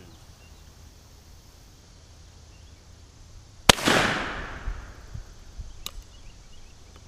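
.410 shotgun fired once about halfway in, a sharp bang trailed by a hiss that dies away over about a second and a half. A faint click follows a couple of seconds later.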